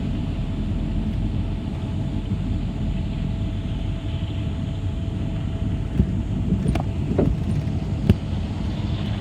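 City bus on the move, heard from on board: a steady low rumble of engine and road with a faint steady whine, and a few short knocks or rattles in the second half.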